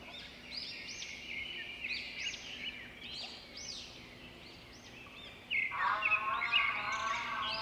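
Repeated short, high bird-like chirps, each rising and falling in pitch. About two-thirds of the way through, a louder, lower warbling call joins them.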